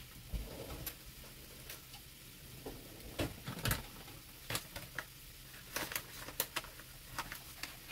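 Shrimp, petai beans and chillies frying in a nonstick pan, left unstirred: scattered sharp pops and crackles of hot oil over a faint steady sizzle.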